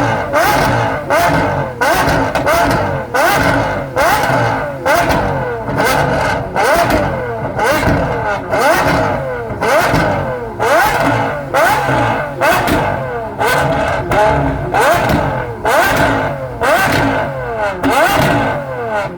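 Supercar engine revved over and over in quick, even blips, a little more than once a second, the pitch climbing then falling back each time, with sharp exhaust pops and crackles between the revs.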